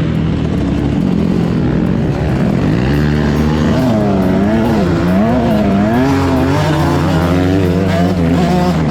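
Dirt bike engine running hard. About three seconds in, its pitch starts rising and falling over and over as the throttle is opened and closed.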